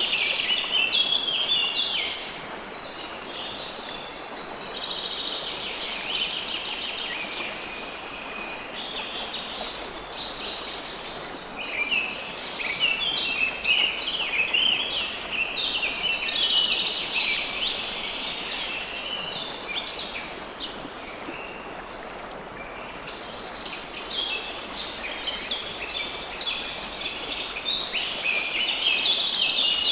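Steady rush of flowing river water with songbirds chirping over it in busy, overlapping bursts. The chirping comes and goes, thickest at the start, in the middle and near the end.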